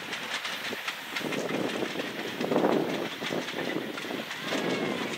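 Train of vintage passenger coaches rolling past, their wheels clicking over the rail joints over a steady rolling rush.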